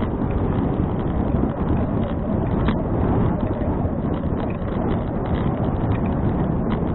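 Wind rushing over an action camera's microphone on a moving bicycle: a steady low rumble, with a few light clicks.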